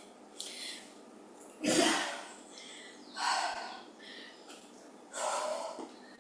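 A woman breathing hard during exercise: forceful exhalations through the nose and mouth, about every second and a half, the loudest about two seconds in.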